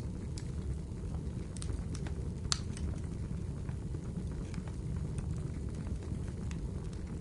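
Wood fire burning in a fireplace: a steady low roar of flames with scattered crackles and pops, the loudest pop about two and a half seconds in.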